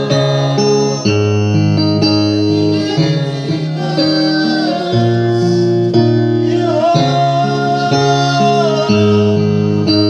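Slow worship music: held chords with guitar, changing every second or two, and a voice singing over them.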